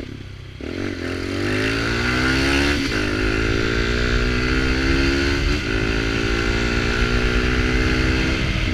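Small Kawasaki Ninja's engine through a sport exhaust with only the pipe, accelerating through the gears. The engine note climbs steadily, drops at an upshift about three seconds in, climbs again, shifts about halfway through and once more near the end.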